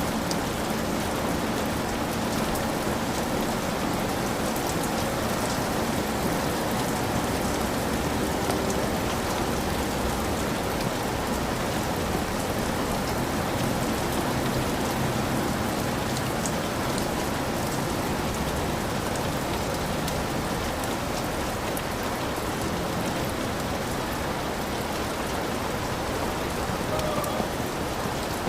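Heavy rain falling steadily on a hut roof, many individual drops pattering over a dense even wash.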